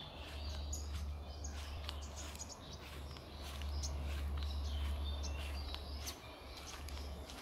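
Birds chirping in many short, overlapping calls, over a steady low rumble.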